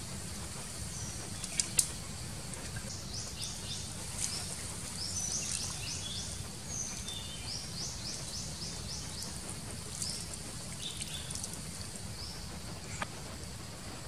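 Outdoor ambience in which a bird calls in quick runs of high, rising chirps, several a second, over a steady low background noise. Two sharp clicks come about two seconds in and another near the end.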